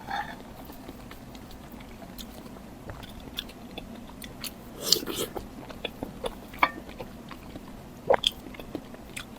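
Close-miked eating sounds: a person biting and chewing food, with scattered short crunchy clicks, the loudest cluster about five seconds in and a few sharp ones later.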